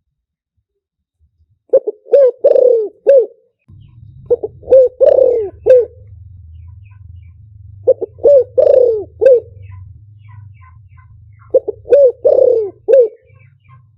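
A spotted dove cooing, the decoy-style call used to lure wild doves. It gives four repeated phrases of about four or five low coos each, roughly every three and a half seconds, with a faint low hum underneath from about a quarter of the way in.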